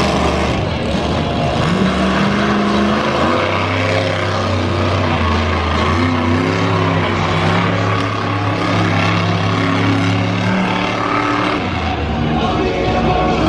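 Monster truck engine running hard, its note rising and falling as it revs, held steady for several seconds in the middle.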